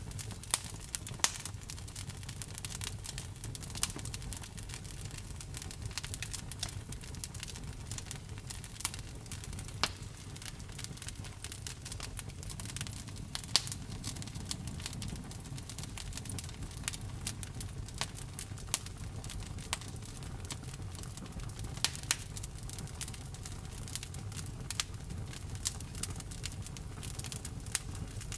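Wood fire crackling, with irregular sharp pops, a few much louder than the rest, over a low steady rumble.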